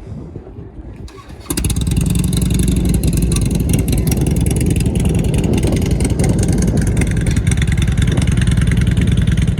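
A vehicle engine starts up about a second and a half in and runs loudly and steadily.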